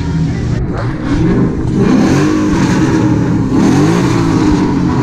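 Car engines revving hard in a rev battle, one blip after another, the engine pitch rising and falling repeatedly and overlapping.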